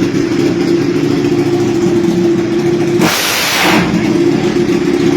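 Motorcycle engine running at a steady pitch, with a short loud rush of hiss about three seconds in.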